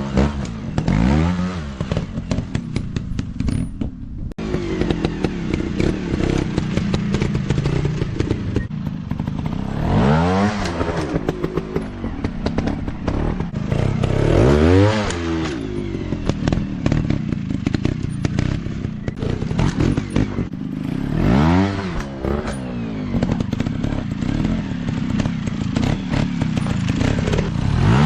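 Small 150 cc dirt-bike engines running and revving hard. The pitch climbs sharply and drops back about five times, with rattling clatter between the revs.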